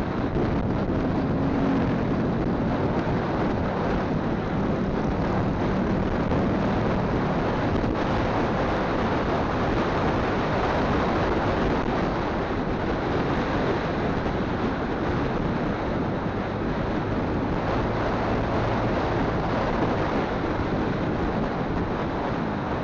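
Wind buffeting a phone's microphone on a moving motorcycle, a steady rushing noise with the motorcycle's engine hum faint underneath.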